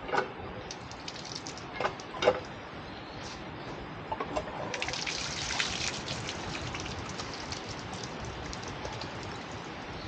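Water splashing and trickling at a temple's hand-washing basin as hands are rinsed before prayer. A few sharp knocks come in the first couple of seconds, and the splashing grows louder about five seconds in, then eases to a steady trickle.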